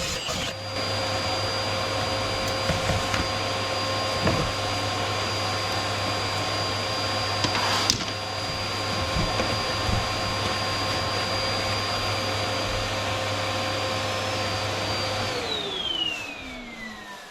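Vacuum motor running steadily with a constant whine, switched off about fifteen seconds in, its pitch falling as it winds down. A few knocks and thuds come through over it, the sharpest about eight seconds in.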